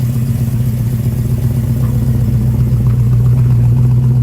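A vehicle engine running loud and steady, holding one low pitch throughout.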